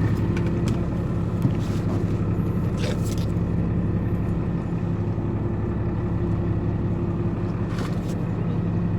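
Boat engine running steadily at low revs, a constant low hum, with a few faint clicks about three seconds in and near the end.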